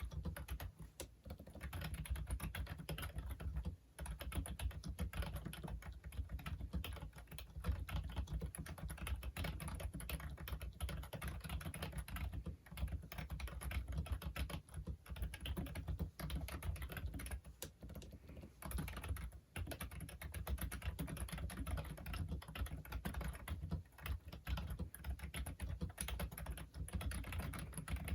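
Typing on a Logitech Wave Keys wireless ergonomic keyboard: a continuous stream of quick key presses, with a few brief pauses.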